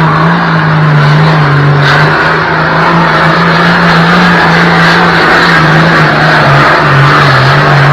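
Super Farm pulling tractor's diesel engine running at high revs under load on a pull, loud and steady with its pitch wavering slightly.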